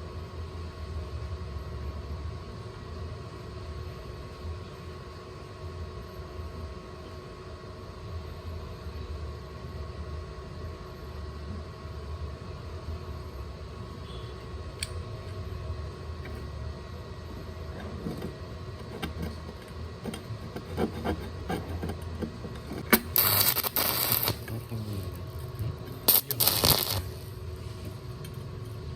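Steady low hum with light metallic clinks and taps, then twice near the end a loud crackling burst of about a second: short strikes of a stick-welding arc, such as tack welds.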